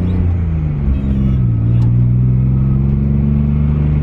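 Nissan 300ZX twin turbo's 3.0-litre twin-turbo V6 running through an HKS cat-back exhaust, heard from inside the cabin while driving. The engine note drops in pitch shortly after the start, bottoms out about a second and a half in, then holds and slowly climbs again; a single sharp click sounds near the two-second mark.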